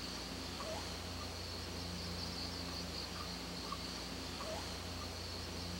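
Outdoor ambience of insects trilling steadily on one high pitch, with a few faint short chirps and a low steady hum underneath.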